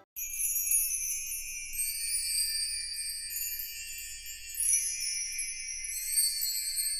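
High-pitched tinkling bell chimes that start abruptly: many overlapping bright ringing tones, all high and shimmering, with no bass or melody beneath.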